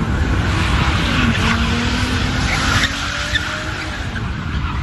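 Car engine running hard with tyres skidding and squealing as a car slides.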